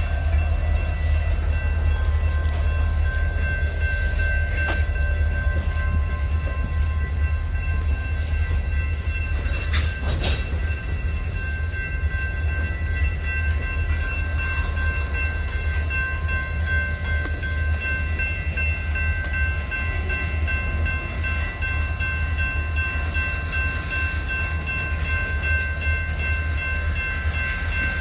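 Train running by with a steady low rumble, and thin high steady tones held above it.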